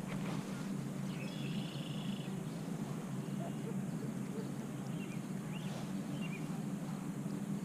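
A bird calling outdoors: a trilled call lasting about a second, starting just over a second in, then a few short chirps later, over a steady low hum.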